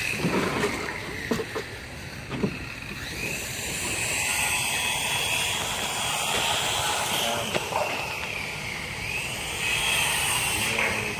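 Construction-site machinery running, with a whine that slowly rises and falls, and a few knocks in the first couple of seconds.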